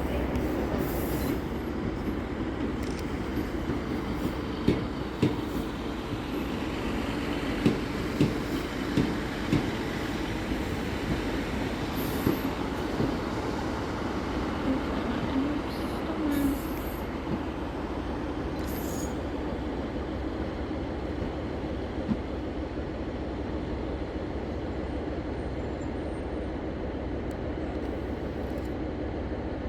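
A train moving through a station with steady running noise and a run of sharp knocks in the first ten seconds or so.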